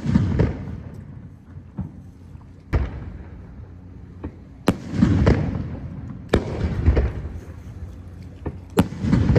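Aerial firework shells bursting overhead: four sharp bangs roughly two seconds apart, each followed by a long low rumble, with a few fainter crackles between them.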